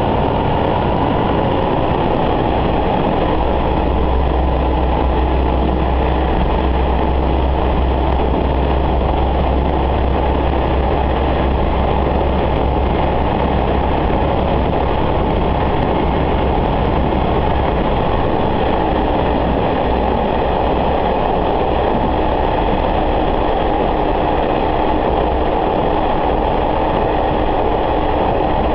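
Diesel railcar running along the line, heard from inside the car: a steady engine drone under continuous wheel and rail noise, with a deep hum that swells about three seconds in and eases off around the middle.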